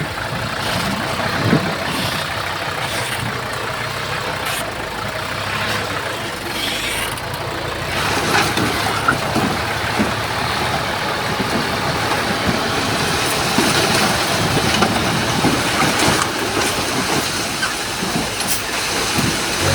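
Heavy diesel machinery running, dump trucks and a bulldozer, with scattered knocks and clanks throughout.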